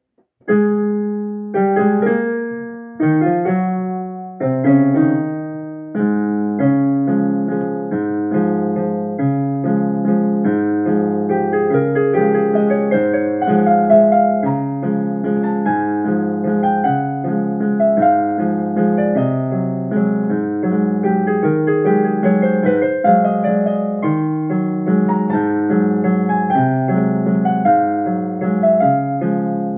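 Solo piano playing: a piece starts about half a second in with a few separate chords left to ring, then runs on as a steady melody over a regularly repeating bass-and-chord accompaniment.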